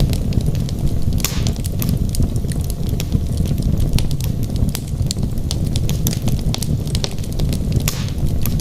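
Wood fire burning in a fireplace: a steady low rumble of flame with many quick, sharp crackles and pops from the logs, and a short hiss about a second in and again near the end.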